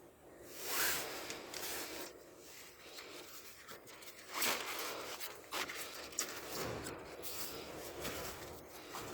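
Rustling, scraping handling sounds, as of paper or cards being moved about, with louder swishes about a second in and again around four and a half seconds in.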